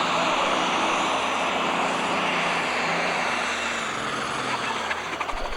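Four-turbocharger super stock pulling tractor running at full power down the track, a loud, dense mix of engine and turbo noise. It eases slightly over the last couple of seconds.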